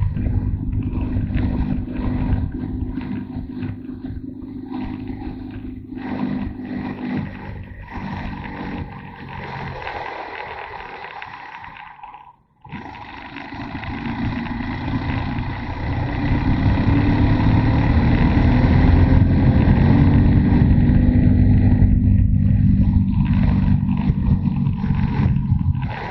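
Motorcycle engine running under way. It fades almost to nothing about halfway through, then comes back and grows louder through the second half.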